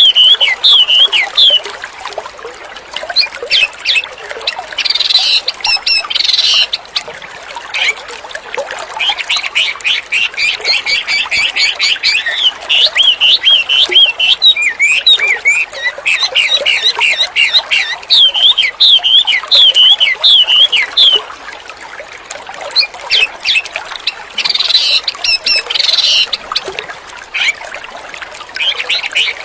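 Wambi songbird singing energetically in rapid chattering trills and sharp squawky notes, over a steady background of running, trickling water.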